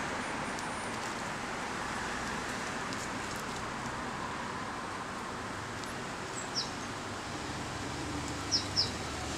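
Steady background hiss, with a small bird chirping three times: once about two-thirds of the way through and twice in quick succession near the end.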